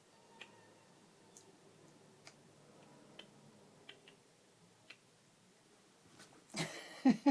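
Sparse small clicks, about one a second, during the grooming of a Yorkshire terrier. Near the end comes a loud rustle and several short, quick cries.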